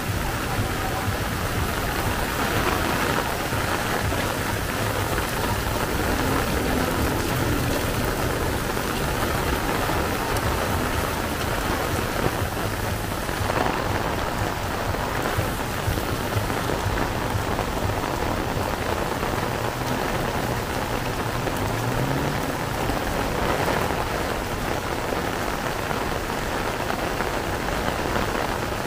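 Heavy rain pouring steadily on the street, a dense, even hiss without let-up.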